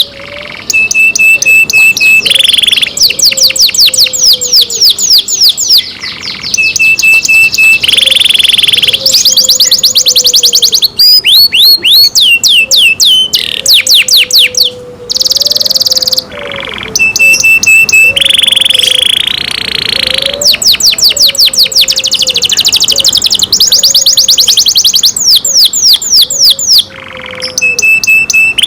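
Canary singing loudly. Fast trills of repeated downward-sweeping notes alternate with short steady whistles and brief buzzing rolls, with a few short pauses between phrases.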